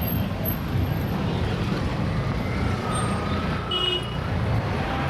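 Heavy city traffic: a steady rumble of engines and tyres from cars, trucks and buses.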